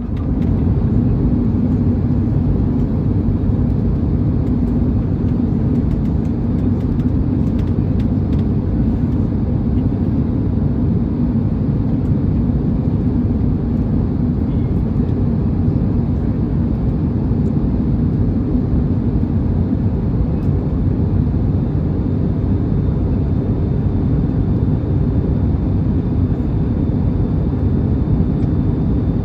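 Steady cabin noise inside an Airbus A321neo airliner in flight: an even, low rumble of engines and airflow.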